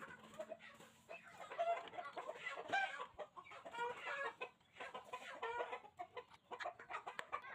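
Short bird calls repeating in quick succession, loudest in the first half.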